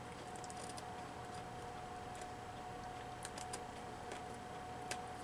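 Scissors snipping paper: faint, irregular clicks of the blades closing, over a faint steady tone.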